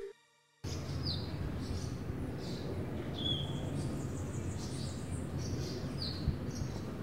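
Birds chirping, short sliding calls repeated about once a second over a steady low background noise, starting after a brief silence. One soft thump about six seconds in.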